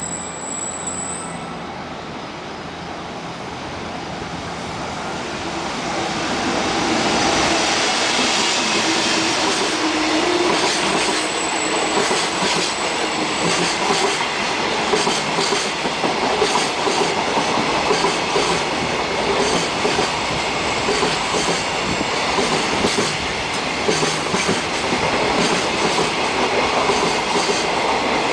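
Electric-locomotive-hauled container freight train approaching and running past, growing louder over the first several seconds, then a steady rumble with rapid, irregular clicking of the wagons' wheels over the rail joints.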